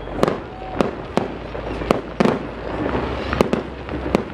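Fireworks shells bursting overhead in a string of sharp bangs, about eight in four seconds at uneven intervals.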